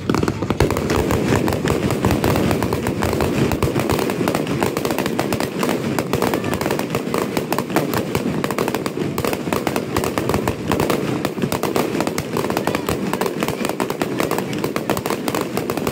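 Aerial fireworks display: many shells bursting in rapid succession, a dense, unbroken run of bangs and crackle.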